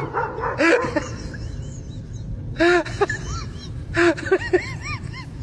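A pet animal's short vocal cries, each rising then falling in pitch: one just under a second in, then a quick run of several from about two and a half seconds in. A steady low rumble lies underneath.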